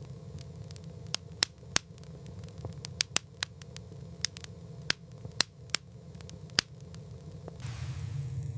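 Small, freshly lit fire crackling, with sharp, irregular pops over a low steady hum. A soft hiss comes up near the end.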